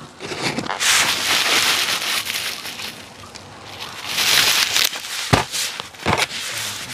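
Plastic bubble wrap crinkling and rustling as hands grip and turn a wrapped parcel, in uneven swells, with two sharp clicks a little after five and six seconds in.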